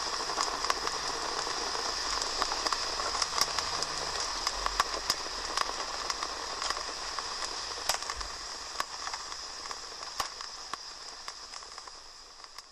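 Wood fire burning in a fireplace: a steady hiss with frequent sharp, irregular crackles and pops, fading out over the last few seconds.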